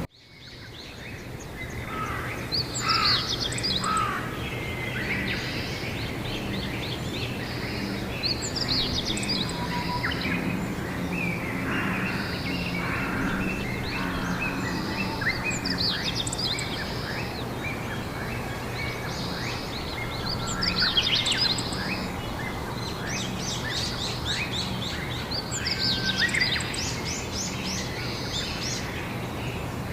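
Songbirds chirping and singing, with overlapping short calls and trills coming in clusters every few seconds over a steady low background rumble. The sound fades in over the first second.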